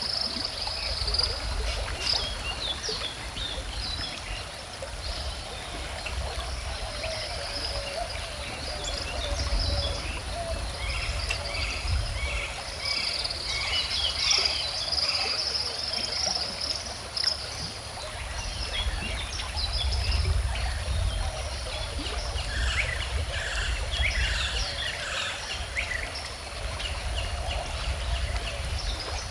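Stream or river water flowing steadily, with birds singing and chirping over it throughout.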